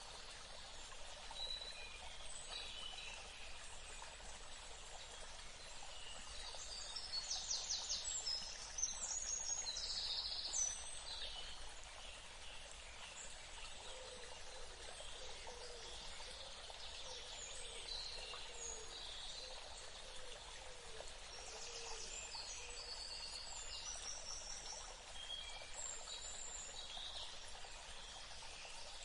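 Several wild birds chirping and whistling over a steady hiss of running water. A rapid trill and louder calls come about 7 to 11 seconds in, and fainter low notes follow midway.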